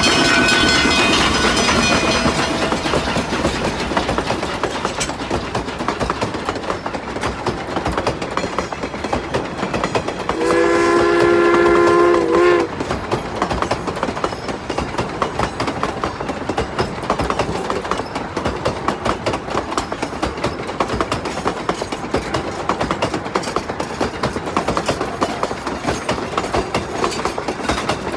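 Narrow-gauge steam locomotive running, with fast exhaust and wheel-on-rail clatter. Its steam whistle, sounding several notes at once, fades out over the first two seconds, then gives one blast of about two seconds a little past ten seconds in.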